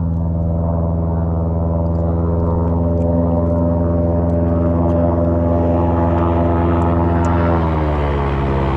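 A steady engine drone that cuts in suddenly just before and bends down in pitch near the end.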